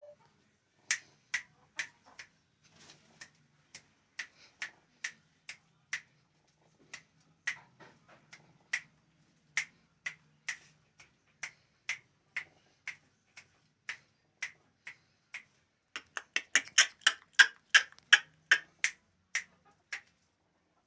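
A series of short, sharp clicks, about two a second, quickening into a rapid run of clicks about sixteen seconds in.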